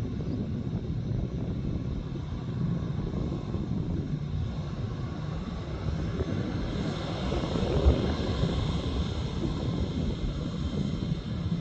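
Airliner engines rumbling steadily, swelling a little about two-thirds of the way through.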